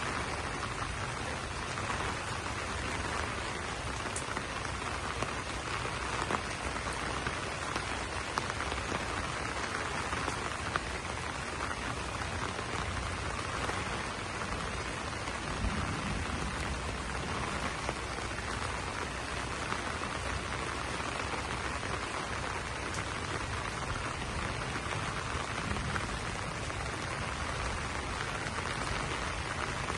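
Steady rain pattering on banana leaves: an even hiss with scattered drop ticks.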